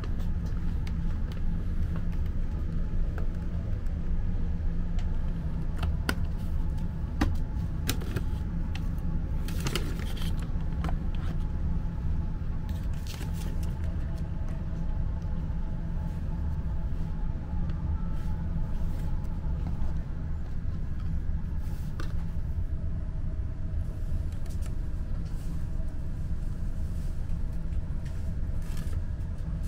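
Steady low rumble of a limited express train running, heard from inside the passenger car, with a few light clicks and knocks scattered through it.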